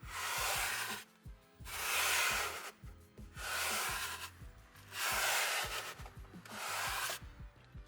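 A cleaning tool worked over a car's interior in five strokes, each about a second long with short pauses between, each a rough, hissy rubbing noise. Background music with a steady beat runs underneath.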